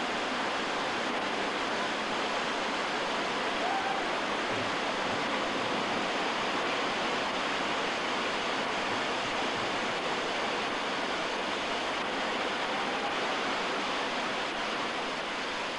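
Steady noise of white water rushing over a waterfall and down a mountain river.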